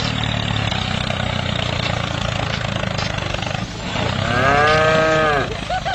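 Tractor engine running steadily, with a cow mooing once, about four seconds in, for over a second; the moo is the loudest sound.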